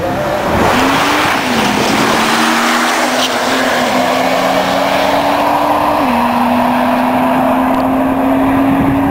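Drag race car accelerating hard down the strip at full throttle, loud, its engine pitch stepping up and down several times through the gear changes.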